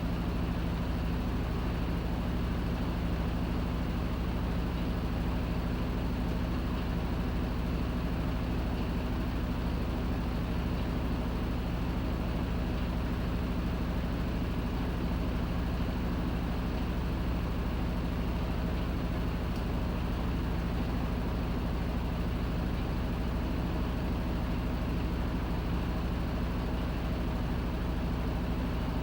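Panasonic NA-FA100H9 top-loading washing machine running partway through its automatic course, a steady even hum and whir with no breaks or knocks.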